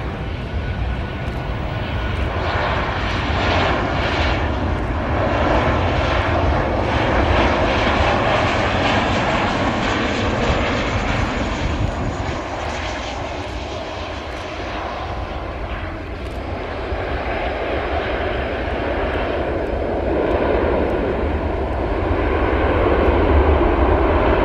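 Airliner engines running loud and continuous, swelling to a peak, easing off, then building again to their loudest near the end as an aircraft passes.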